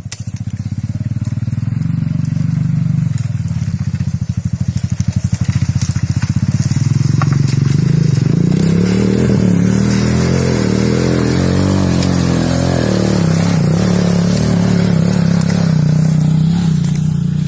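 Chinese 250cc quad bike's 167FMM single-cylinder four-stroke engine running with a steady pulse at idle, revved up and down several times in the middle, then settling back to a steady idle near the end.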